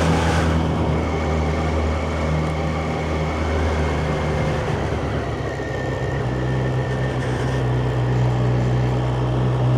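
Yamaha FZ1's inline-four engine running steadily under way, with rushing wind and road noise. The engine note steps up in pitch about halfway through.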